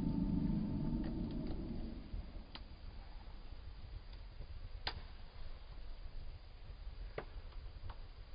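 Wood fire in a fireplace crackling: a few sharp, isolated pops a second or two apart over a faint steady hiss. A low rumble fades out over the first two seconds.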